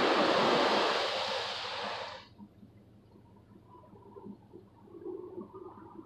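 Automatic car wash water spray pounding on a truck, heard from inside the cab, cutting off suddenly about two seconds in; faint gurgling and dripping of run-off water follow.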